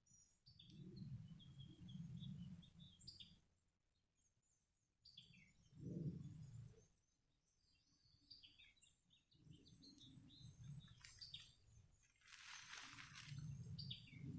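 Faint songbirds chirping in short, scattered calls, over repeated low rumbling swells. A brief rustle comes about twelve and a half seconds in.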